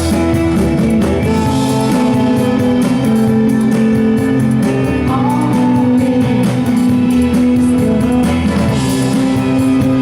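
Live rock band playing, with guitars over long held notes.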